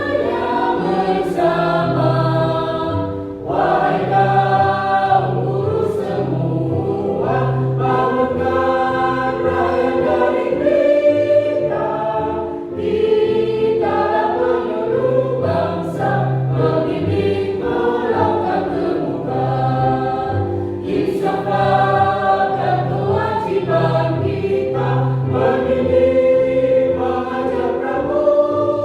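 A choir singing a song with instrumental accompaniment that carries a steady pulsing bass line.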